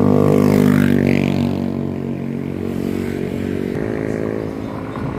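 Motorcycle engine running steadily while riding, with a brief rising whine about a second in and a slight drop in engine note near the end.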